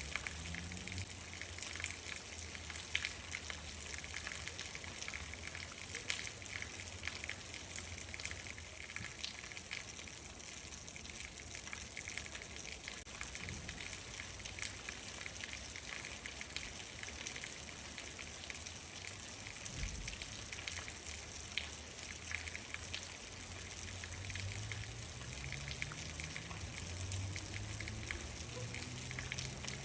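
Steady rain, with many individual drops ticking and pattering on a surface. A low rumble runs underneath and swells near the end.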